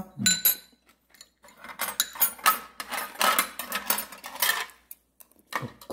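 Eating utensils clinking and scraping against dishes during a meal: one short ringing clink, then a quick run of clicks and scrapes.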